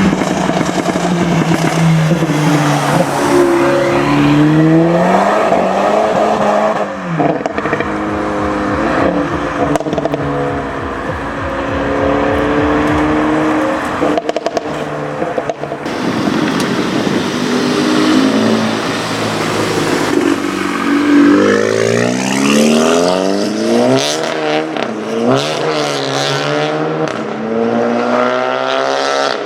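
Volkswagen Golf engine revving and accelerating, its pitch climbing and dropping repeatedly. In the second half it pulls through several gears in a row, each rise in pitch ending in a drop at the shift.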